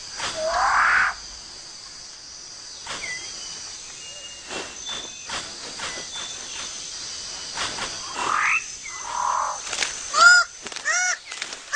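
Rainforest birds calling: a loud rising call at the start, scattered short whistles and clicks, another rising call, then a harsh call with an arching pitch repeated about twice a second near the end.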